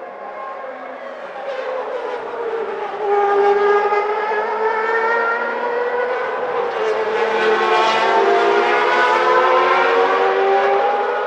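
Several 1991 Formula One cars' 3.5-litre naturally aspirated engines running at high revs, their overlapping high-pitched notes sliding up and down as the cars go through the gears and pass. The sound swells about three seconds in and stays loud.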